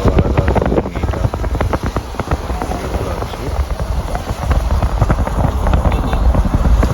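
Wind buffeting the microphone in a steady low rumble, with many sharp crackles throughout.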